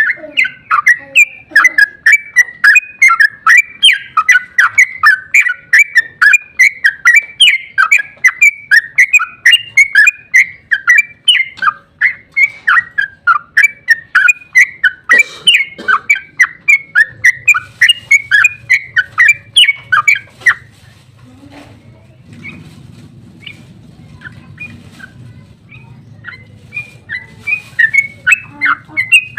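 Yellow-vented bulbul (trucukan) singing its long, rapid 'ropel' song: a continuous chattering run of loud whistled notes, about four or five a second. The song breaks off about twenty seconds in and starts again near the end.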